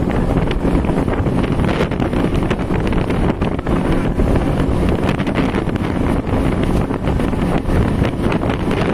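Speedboat powered by twin Yamaha 200 hp two-stroke outboard motors running flat out, the engine sound steady and mixed with heavy wind buffeting on the microphone.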